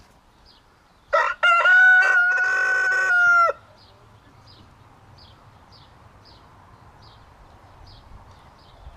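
A rooster crowing once: a loud, steady-pitched call lasting about two and a half seconds, with a short stutter at its start. Faint high chirps repeat about twice a second underneath.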